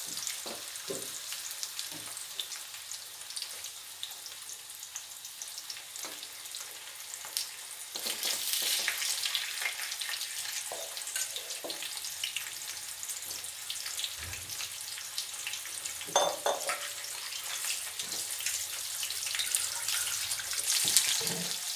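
Cornflour-coated chicken pieces shallow-frying in hot oil in a kadai on a low flame: a steady sizzle that grows a little louder about a third of the way in, with a few scattered knocks and scrapes of stirring.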